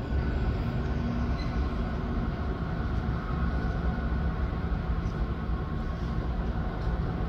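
Container freight train running past with a steady low rumble and a faint drone from the locomotive, without pause or sudden clatter.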